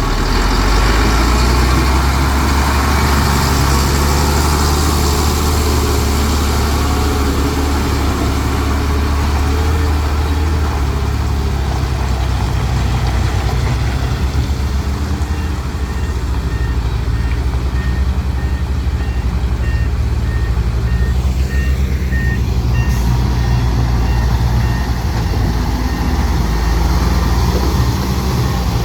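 Heavy diesel earthmoving machinery running steadily with a deep engine rumble. A reversing alarm beeps about once a second from around the middle of the stretch for several seconds.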